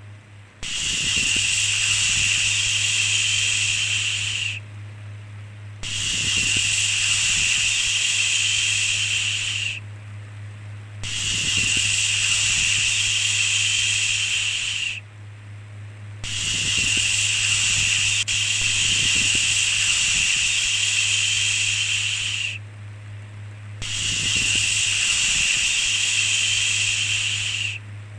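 A soft 'shhh' shushing sound repeated over and over, each shush lasting about four seconds (one runs about six) with a short pause of about a second between them, five in all. A faint steady low hum sits underneath.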